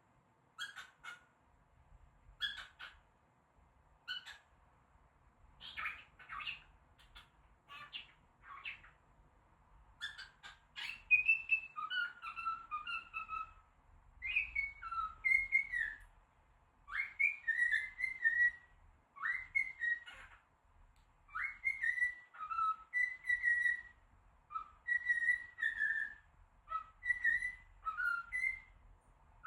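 Pet cockatiel calling: short separate chirps at first, then from about ten seconds in a long run of whistled notes that rise and fall in pitch.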